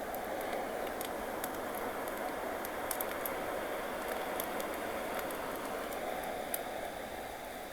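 Ocean wave washing in: a steady rush that swells at the start and eases off near the end. Campfire pops and crackles sound over it as scattered sharp clicks.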